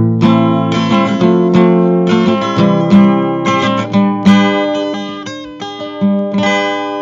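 Intro music: an acoustic guitar strumming chords in a steady rhythm, ringing on at the end.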